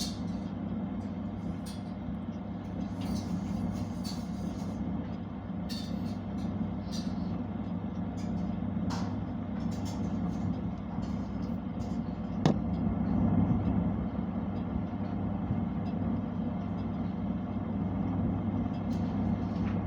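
Constructa oven running: a steady low hum with a few sharp clicks.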